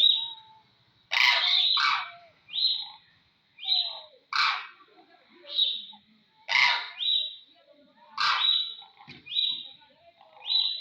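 Crane calling over and over, with harsh, coarse calls about every two seconds alternating with short, high, clear notes.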